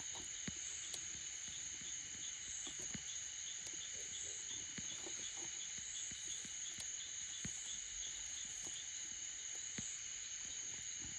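Night chorus of crickets and other insects: one steady high-pitched shrill and a pulsing trill beneath it, with a few faint scattered clicks.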